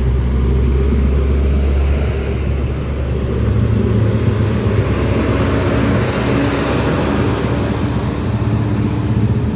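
Heavy diesel truck engine running close by as it passes, a deep steady drone over tyre and traffic noise.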